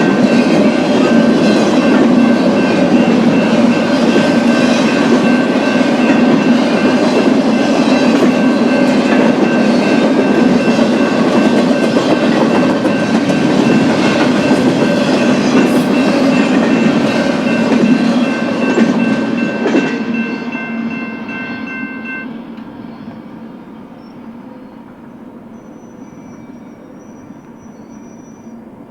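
BNSF freight train's cars rolling past with a dense clatter of wheels over rail joints, and a steady high ringing tone over it. About two-thirds of the way through the last car goes by, the ringing stops and the sound falls away to a fading rumble.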